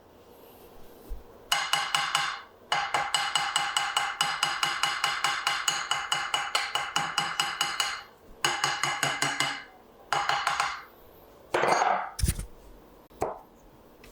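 A tool working on a wooden rifle stock in bursts of rapid, even strokes with a ringing, buzzy tone. The longest burst lasts about five seconds and is followed by several shorter ones. A sharp knock comes about twelve seconds in.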